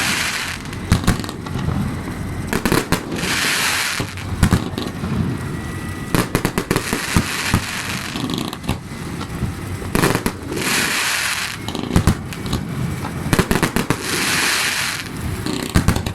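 Fireworks and firecrackers going off: rapid sharp cracks and bangs throughout, with a hissing burst every three to four seconds.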